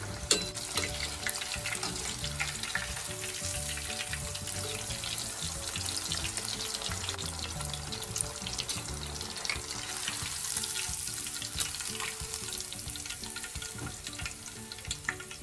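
Panko-breaded pork cutlet deep-frying in a pot of hot oil: a steady sizzle full of small crackles and pops.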